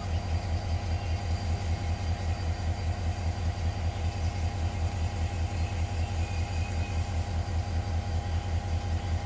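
Diesel locomotive engine idling with a steady, evenly pulsing low throb.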